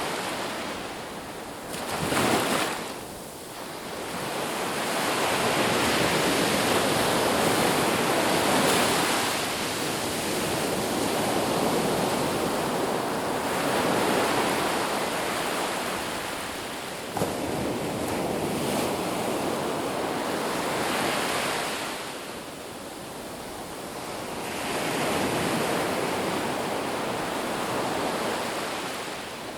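Ocean surf breaking on a beach: a steady wash of waves that swells and falls back every few seconds, with a sharper wave breaking about two seconds in.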